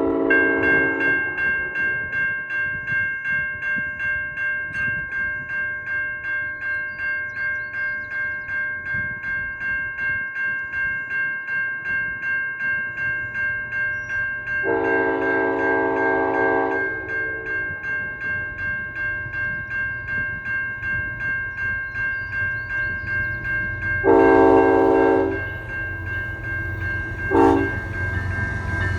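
Railway crossing bell ringing steadily at about two strokes a second, while the lead locomotive of an approaching CN freight, a GE ET44AC, sounds its horn for the crossing: two long blasts, a short one, and the start of a last long one. A low diesel rumble builds as the train nears.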